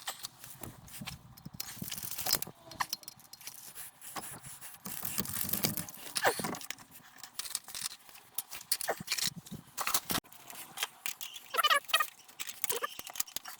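Hand work on a scooter's CVT drive: scattered clicks, knocks and scrapes of metal parts and the drive belt being handled and pushed into the pulleys, with no engine running.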